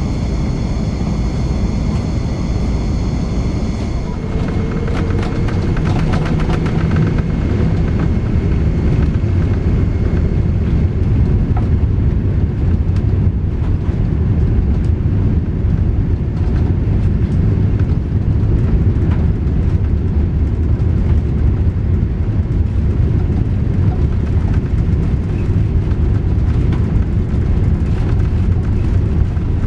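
Airbus A380 cabin noise: a loud, steady low rumble of engines and airflow, growing a little louder over the first several seconds.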